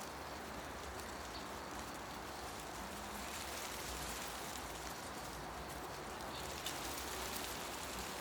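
Wind moving through tree leaves, a steady soft rustling hiss, with a few faint ticks about seven seconds in.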